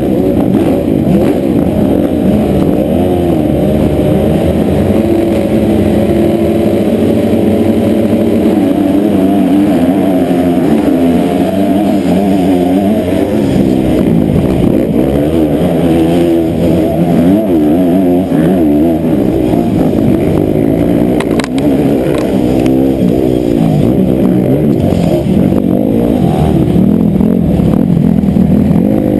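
Honda CRF250 motocross bike's single-cylinder four-stroke engine being ridden hard, its pitch rising and falling constantly as the throttle is worked and gears change. The sound is muffled, with little above the engine's low notes.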